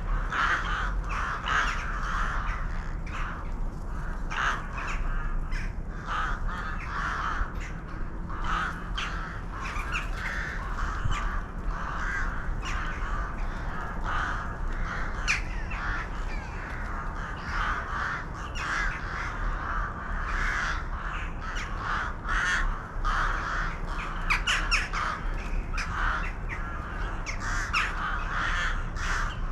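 A flock of birds calling, many short calls overlapping without pause.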